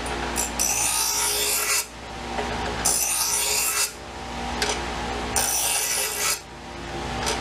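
Three long abrasive strokes of a hand tool rasping along a steel knife blade, about every two and a half seconds, grinding out nicks to even the edge.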